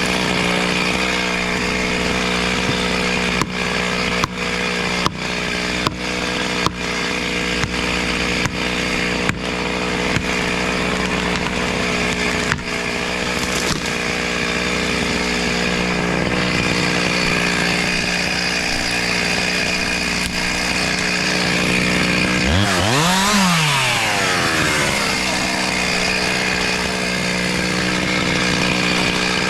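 Chainsaw running at high, steady revs while cutting, with a row of short clicks through the first half. About 22 seconds in, the revs drop and swing up and down before settling back to full speed.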